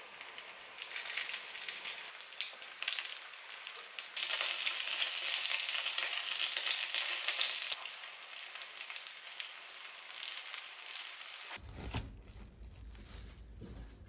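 Spring rolls shallow-frying in oil in a frying pan: a steady crackling sizzle, louder for a few seconds in the middle. It cuts off about eleven seconds in, leaving a low hum.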